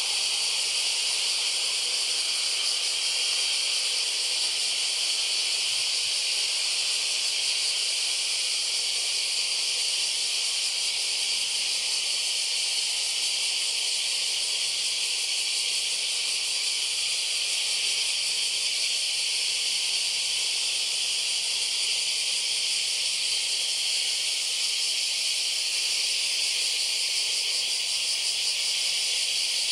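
Steady, high-pitched insect chorus, an unbroken hiss that neither rises nor falls.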